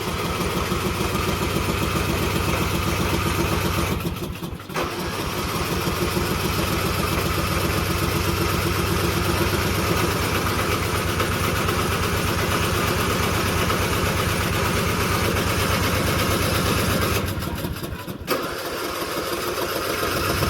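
Briggs & Stratton engine of a Murray riding mower, keyed on a jump pack, turning over and running with a fast, even pulse. It drops out briefly twice, about four seconds in and around seventeen to eighteen seconds.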